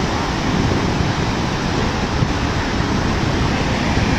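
Waterfall roaring: loud, steady rushing water with no breaks.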